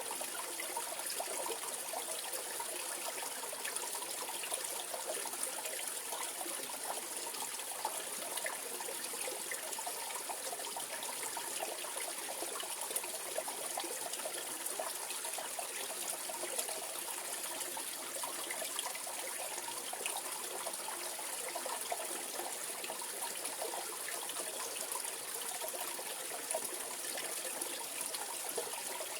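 Mountain valley stream running over rocks: a steady babbling and trickling rush of water, even throughout.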